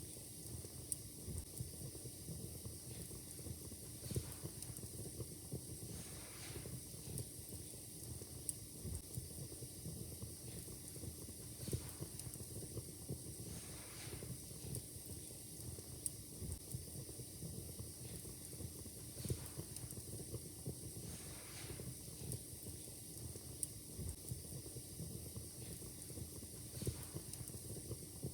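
Wood fire in a fireplace crackling, with frequent irregular pops and snaps over a steady low rumble and hiss.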